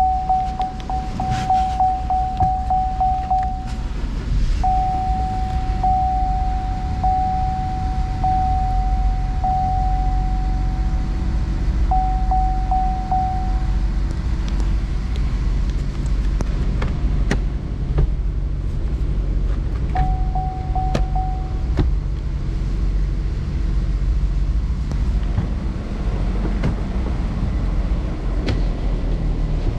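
A 2018 Cadillac ATS's 2.0-litre turbocharged four-cylinder engine running steadily. A steady high tone, broken about once a second, sounds over the engine for the first half and briefly again later.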